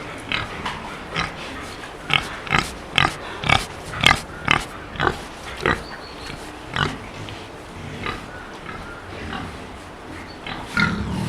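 Pig grunting: a run of short grunts, about two a second and loudest in the middle, with scattered grunts before and after.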